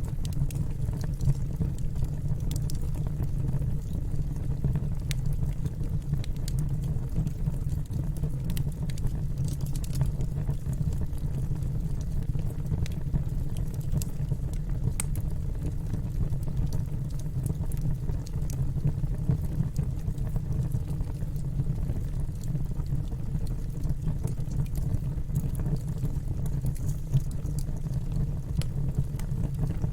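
Wood fire burning in a fireplace: a steady low rumble of the flames with scattered, irregular crackles and pops.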